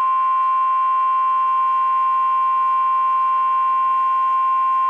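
NOAA Weather Radio 1050 Hz warning alarm tone: one loud, steady, unbroken tone. It is the signal that a new weather warning message is about to be broadcast.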